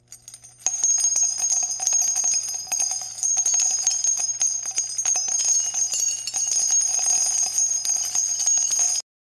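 Bells jingling and ringing steadily, a shimmer of small clicks over held high tones, which cut off abruptly near the end.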